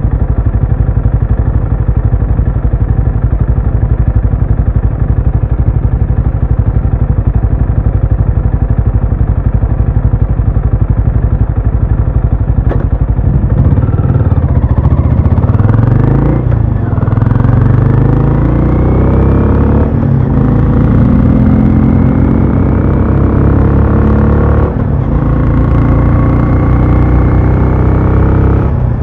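Exhaust of a Benelli Imperiale 400's single-cylinder engine, running steadily at low revs for about half the stretch, then accelerating. The pitch rises through the gears, with short breaks at three gear changes.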